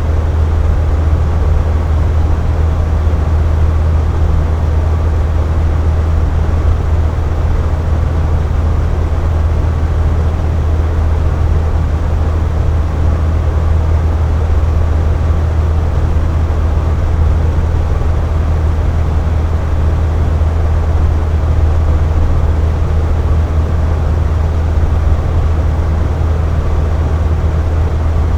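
Air conditioner running steadily: a constant low hum and rush of air, deepest at the bottom, with no changes or cycling.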